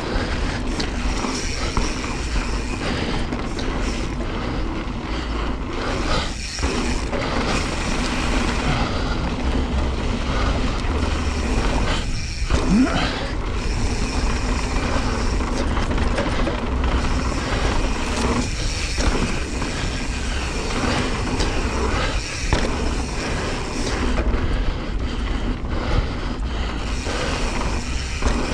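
Mountain bike tyres rolling fast over a dry dirt and gravel trail, with wind rushing over the bike-mounted camera's microphone. It is a steady rumbling hiss that dips for a moment a few times.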